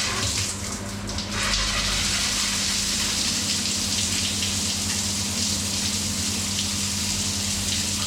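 Aqualisa digital shower running: water spraying from the shower head, coming on fully about a second and a half in and then steady. Under it is a low steady hum from the newly replaced pump, which runs much quieter.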